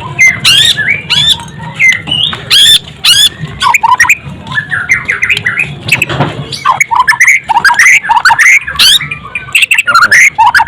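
White-rumped shama (murai batu) singing loudly and without pause: a rapid, varied run of sweeping whistles, quick trills and sharp clicking notes.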